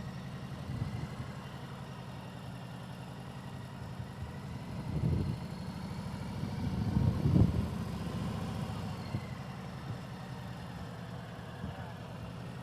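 Motorcycle engine idling steadily, swelling louder briefly about five seconds in and again around seven seconds.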